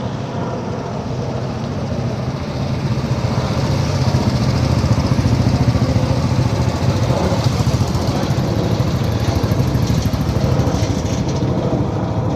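Motorcycle engine running with a steady, rapid low pulsing, growing louder over the first few seconds and then holding.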